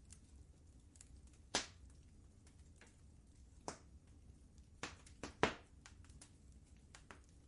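Wood fire crackling in a fireplace, with a steady low rumble under scattered faint crackles and a handful of sharp pops, three of them close together past the middle.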